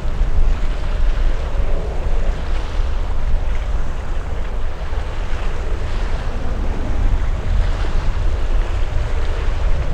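Wind buffeting the microphone outdoors: a steady, heavy low rumble with a broad rushing noise over it.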